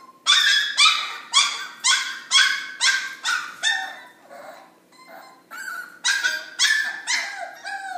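Puppy yapping in a rapid run of high-pitched barks, about two a second, easing off for a moment about halfway through and then starting up again.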